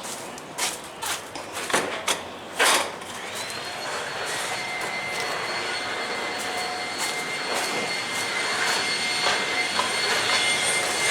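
A few knocks and clatters of handling, then about three seconds in a vacuum cleaner motor switches on. It whines up in pitch and runs steadily.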